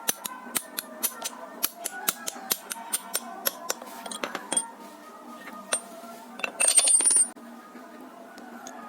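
Light metal-on-metal taps, two or three a second, as parts of a rusty hand drill are worked on, then a brief loud rasp near the end. Soft background music runs underneath.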